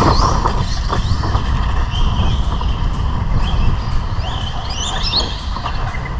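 Team Associated Rival MT10 RC monster truck running, its electric motor whining up in short rising sweeps as the throttle is blipped, strongest about four to five seconds in, with a couple of sharp clicks. Wind rumbles on the microphone throughout.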